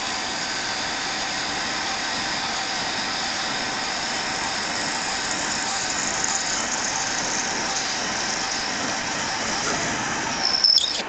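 Metal lathe running while a drill bit bores into aluminum bar stock, a steady machining noise. Near the end comes a short, louder burst with a high squeal.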